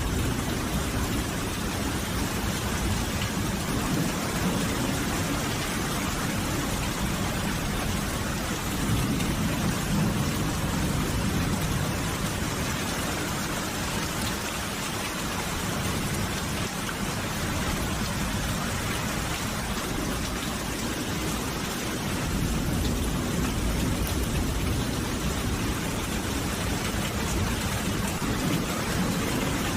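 Steady, dense rain falling, an even hiss with no breaks, over a low rumble that swells a little about ten seconds in.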